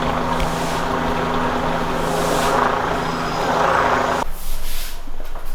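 A motor running steadily with a low, even hum, which cuts off suddenly about four seconds in.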